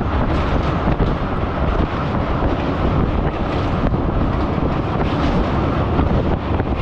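Local passenger train running at speed across a steel truss bridge: a steady rumble of the carriage on the rails, with wind buffeting the microphone held out of the window.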